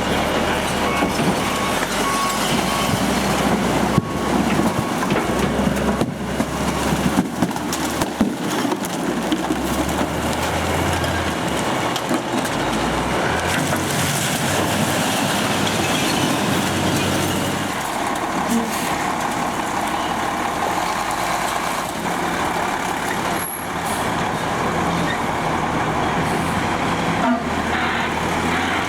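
Recycling truck running, its engine rising and falling in pitch, with a few sharp knocks in the first several seconds.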